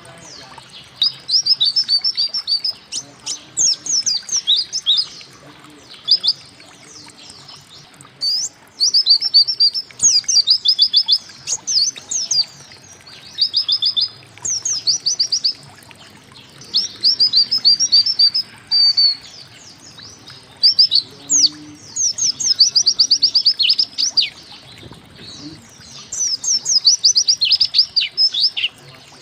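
White-eye (pleci) singing in repeated bursts, each about a second long, of rapid high notes that sweep down in pitch. Short pauses fall between the bursts. These fast repeated runs are the "tembakan" (shots) prized in songbird training recordings.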